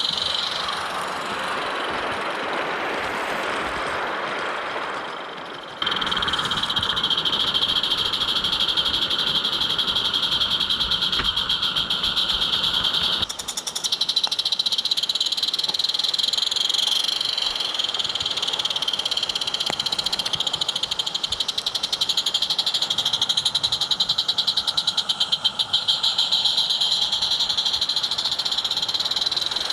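Roundhouse 'Katie' live-steam garden-railway locomotive running along the track: a steady high-pitched hiss with fast, even beats. It gets louder suddenly about six seconds in and dips briefly near the middle.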